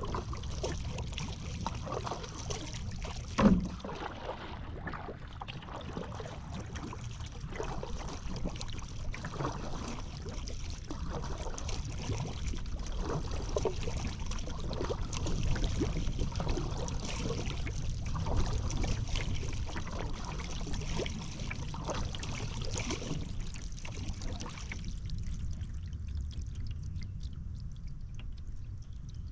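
Kayak paddle strokes in river water: irregular splashing and dripping off the blades over a steady low rumble, with a single sharp knock about three and a half seconds in. The splashing thins out near the end.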